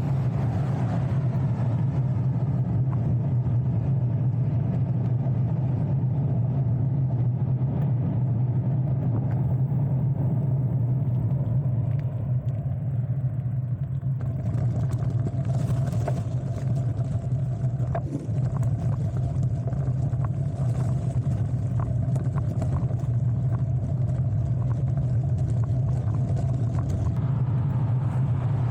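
Steady low rumble of riding noise picked up while cycling, with a few faint clicks and no rises or swells.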